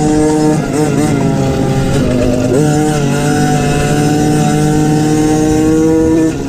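Engine of an MXF 50 Pro Racing kids' motocross bike, heard from an onboard camera at race pace. It runs at high revs, backs off briefly about a second in and again around two seconds, climbs sharply back up and holds, then drops off just before the end.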